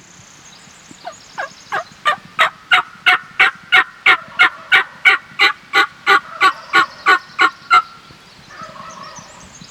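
Hen-turkey yelps on a diaphragm mouth call: a long, evenly paced series of about twenty sharp notes, about three a second, swelling in loudness, calling to a gobbler.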